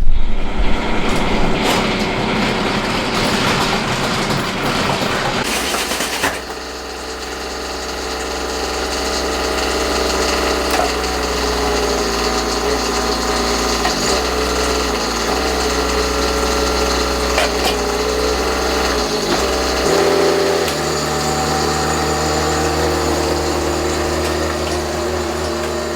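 Bobcat E10 mini excavator's diesel engine running, its pitch dipping and shifting a few times as the machine is worked, with a few brief knocks.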